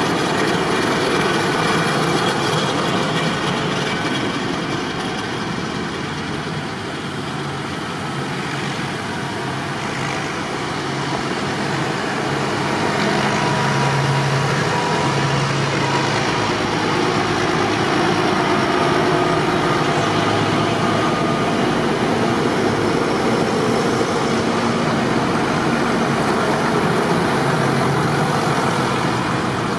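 Tractor engines running steadily, with a constant noise of vehicles on the move and low engine tones that shift a little in pitch.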